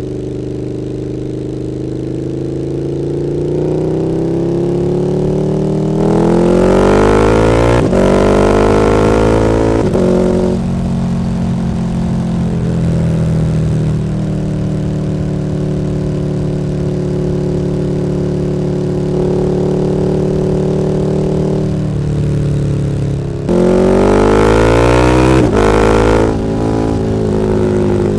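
KTM 1290 Super Duke R's V-twin engine through an Akrapovič Evolution Line exhaust, on the move: it pulls up through the revs with quick breaks at two upshifts, then runs steadily at cruising speed, and near the end pulls hard again up to another shift.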